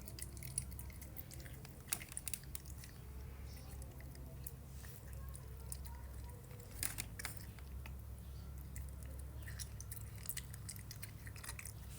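An animal chewing food: irregular wet clicks and crunches, clustered about two seconds in and again near seven seconds, over a steady low hum.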